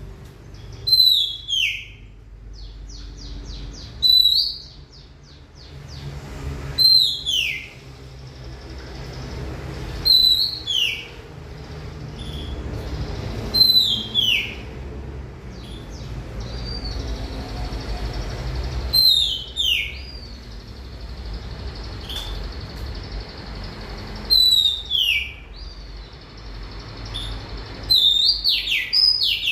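Oriental magpie-robin (kacer) singing a short phrase about every three seconds: a sharp high note dropping into a falling whistle, with a quicker run of notes near the end. A low steady rumble lies underneath.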